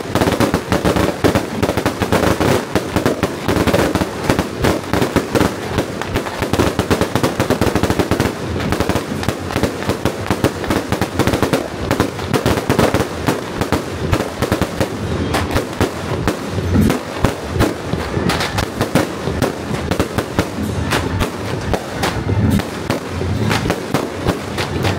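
Firecrackers and fireworks going off in a dense, continuous crackle of rapid bangs.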